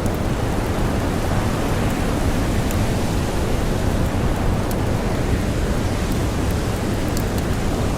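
Blizzard wind blowing steadily, with a few faint crackles from a campfire.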